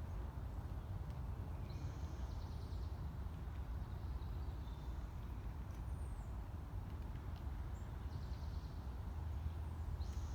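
Steady low outdoor rumble with a few short, scratchy bird calls about two seconds in, again around eight seconds and at the very end, plus a brief chirp near the middle.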